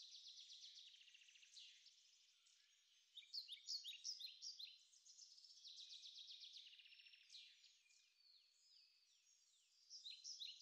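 Faint birdsong: bursts of high chirps and quick trills, with a few quiet seconds in between.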